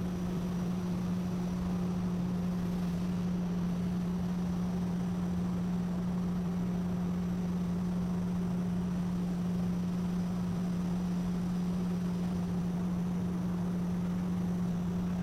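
Steady machine hum: a constant low drone that does not change, over an even hiss.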